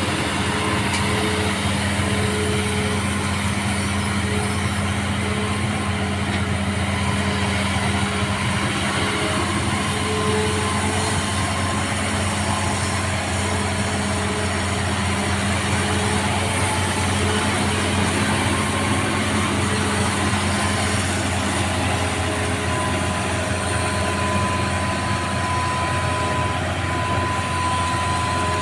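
Excavator's diesel engine running steadily, with a thin steady whine over it.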